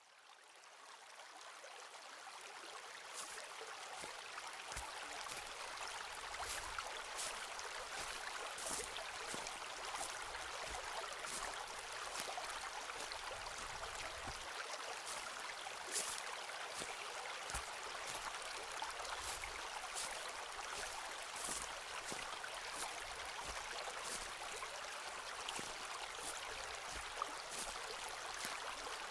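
Footsteps walking along a forest path, a short crunching step roughly every second, over a steady rushing background noise. It fades in over the first couple of seconds.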